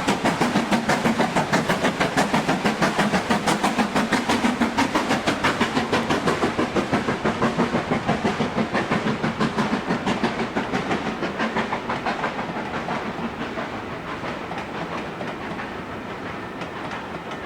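Steam locomotive working with rapid, even exhaust beats, about four or five a second. After about ten seconds the beats fade into a quieter, rougher rumble of the train.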